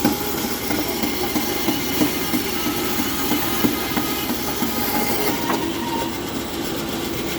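Bandsaw running steadily, with scattered irregular ticks and a steady hum that comes in about five and a half seconds in.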